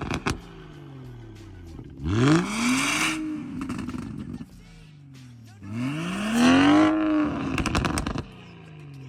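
BMW 340i's turbocharged inline-six revved twice from idle through an aftermarket stainless valved exhaust, each rev a quick rise in pitch and a slower fall back to idle. Bursts of crackles from the exhaust near the start and as the second rev falls away.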